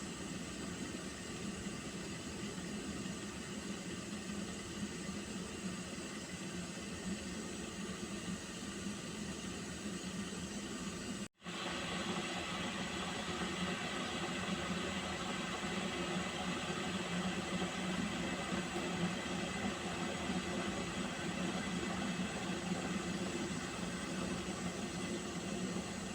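Water heating in a pot on the stove, giving off a steady hiss with faint steady tones running through it. The sound cuts out for a moment about eleven seconds in, then carries on slightly louder.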